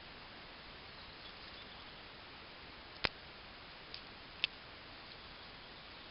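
Thin dry birch twigs being laid into a fire pyramid: a few faint light ticks, then three sharp clicks about three, four and four and a half seconds in, the first the loudest, over a steady low hiss.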